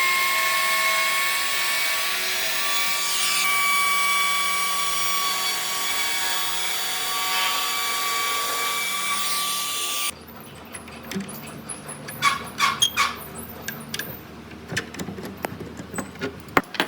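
Electric power tool, drill-like, running with a steady high whine on wood, cutting off suddenly about ten seconds in. Scattered light clicks and knocks follow.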